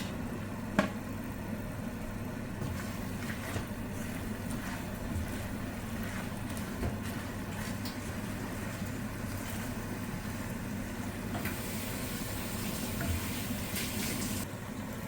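A steady low hum from a kitchen appliance, with small clicks and rustles of spinach being added by hand to the pie filling. There is a sharp click about a second in and a brief hissy rustle near the end.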